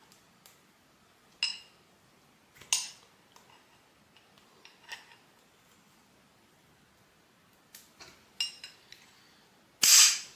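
Small metal parts and tools of a motorcycle brake caliper clinking and clattering on a workbench as they are picked up and set down: a handful of sharp clinks, some ringing briefly, the loudest near the end.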